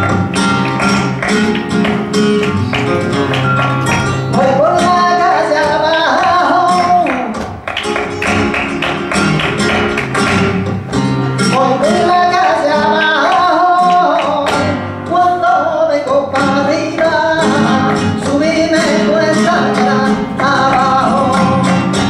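Flamenco music: guitar with sharp percussive strikes, and a singer's wavering, ornamented voice coming in phrases from about four seconds in.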